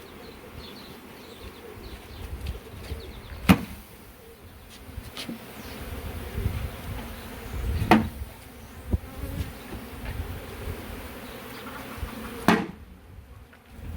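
Swarm of honeybees buzzing in the air around an open hive, with three sharp knocks spread through it.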